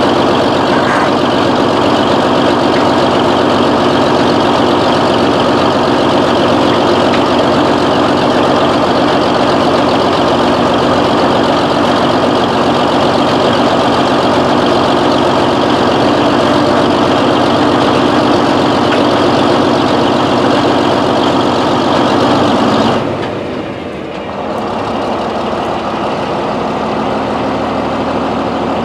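Large diesel engine running steadily. About 23 seconds in the sound abruptly turns quieter and duller, then carries on at a slightly lower level.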